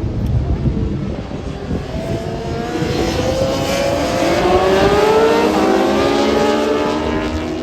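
Racing motorcycles at full throttle, engine notes climbing in pitch as they accelerate. The sound builds to its loudest about five seconds in, then eases a little.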